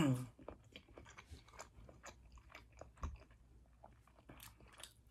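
Close-up eating of roasted cauliflower on pita bread: faint chewing and biting, a run of soft mouth clicks and small crunches, with one slightly stronger knock about 3 seconds in.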